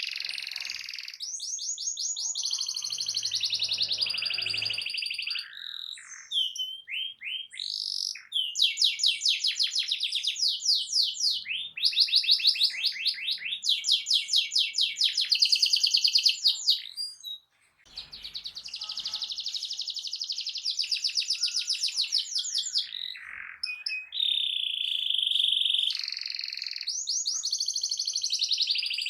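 Canary singing a loud, fast song of trills and rolls, the notes repeated many times a second, with a brief pause just past halfway. It is the loud chattering song used as a lure to provoke other canaries into singing back.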